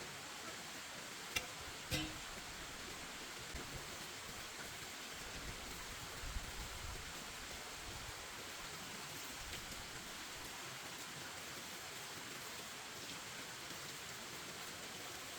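A steady hiss of background noise, with two sharp knocks, about a second and a half and two seconds in, and a few soft low thumps after them.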